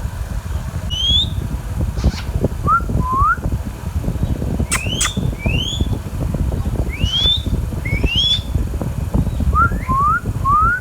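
Indian ringneck parakeet giving about a dozen short whistled calls, each sweeping quickly upward in pitch, some in quick pairs and runs of two or three. A steady low rumble runs underneath, with a couple of sharp clicks near the middle.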